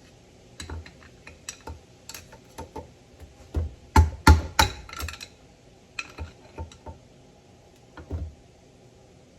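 Metal parts and tools being handled, clinking and knocking in scattered taps, with three louder knocks about four seconds in.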